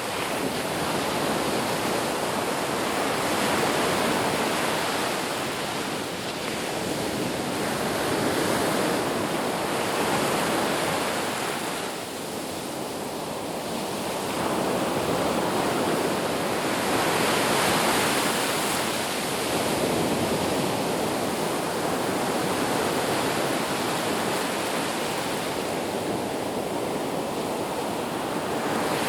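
Ocean surf washing on a beach: a continuous hiss of breaking waves that swells and eases every few seconds.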